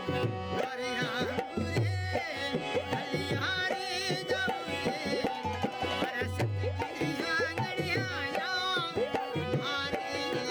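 Rajasthani Manganiyar folk music performed live: a hand drum plays a steady rhythmic beat under a wavering, ornamented melody line.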